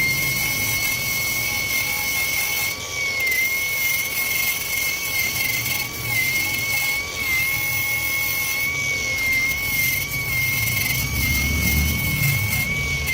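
A power tool's motor running with a steady high whine that dips briefly now and then, as if under load, with a low rumble swelling near the end.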